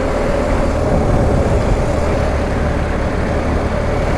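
BMW R1250 GS Adventure motorcycle's boxer-twin engine running at a steady cruise, with steady wind and road noise.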